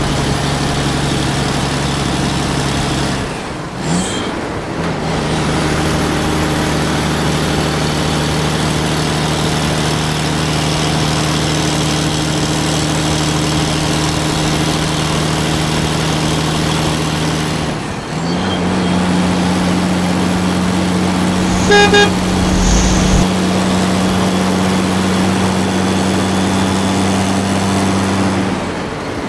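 Vehicle engine sound effect running steadily, switching to a different engine note about 4 s and again about 18 s in, with a short horn toot about 22 s in.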